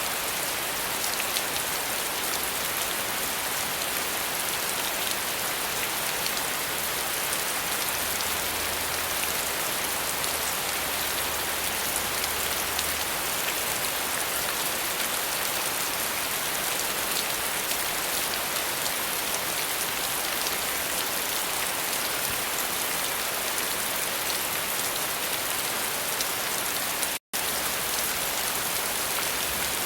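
Steady rain falling on a surface, an even hiss with fine patter of individual drops. It cuts out for an instant about 27 seconds in, then carries on.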